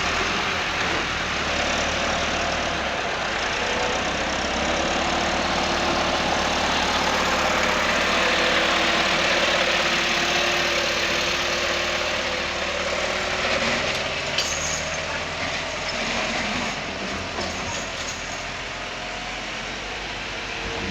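Heavy vehicle engine running steadily, its pitch drifting up and down a little, with a few short clicks about two-thirds of the way through.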